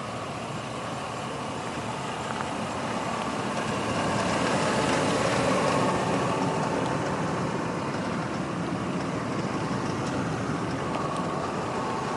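Hummer H2's 6.0-litre V8 idling through its Corsa exhaust, getting louder a few seconds in and then easing off a little.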